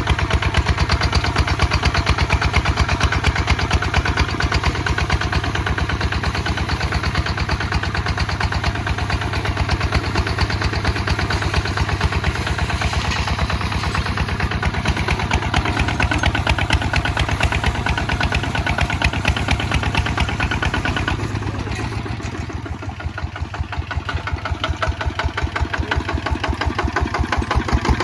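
Kubota ZT155 DI single-cylinder diesel engine running steadily with an even chugging beat while the tractor plows. Its sound drops for a few seconds a little past two-thirds of the way through, then picks up again.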